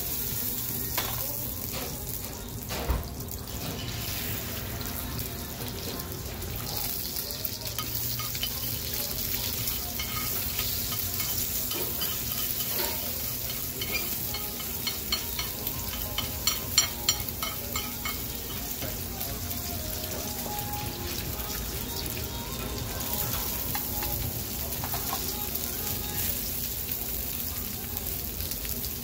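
Egg and then rice sizzling in a hot stone bowl as they are stirred and scrambled with metal utensils. Clinks and scrapes of the utensils on the bowl come through the steady sizzle, with a flurry of quick taps around the middle.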